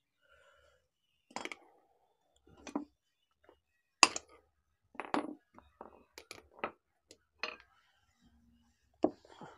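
Metal clinking and knocking from small tools and angle-grinder gear-head parts being handled and struck: about a dozen sharp, irregular clinks, the loudest about four seconds in.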